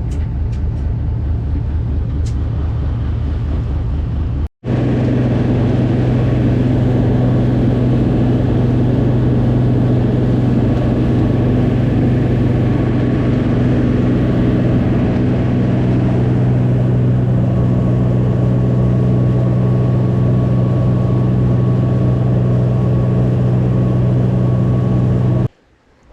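Boat engine running steadily under way, a loud even hum. It breaks off for an instant about four and a half seconds in, runs on, and cuts off abruptly near the end.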